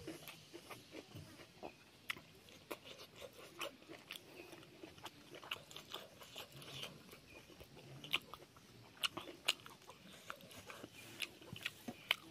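A person chewing and crunching a mouthful of food close to the microphone, with irregular sharp crunches and wet mouth clicks, a few louder crunches about two-thirds of the way in and near the end.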